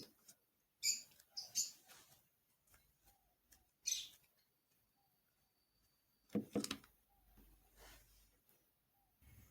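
Scattered short clicks and clatters of kitchen work, a few at the start, one about four seconds in and the loudest cluster a little past the middle, over a quiet background.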